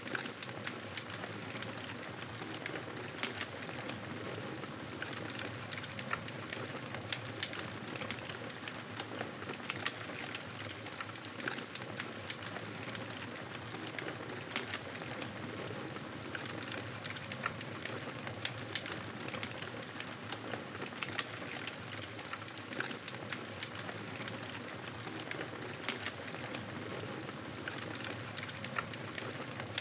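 Campfire burning with a steady hiss and frequent small, sharp crackles and pops.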